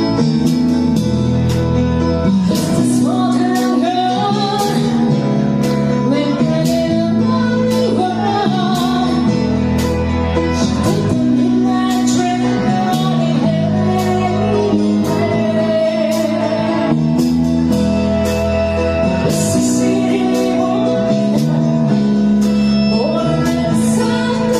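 A band playing a song: singing over guitar, with a steady drum beat.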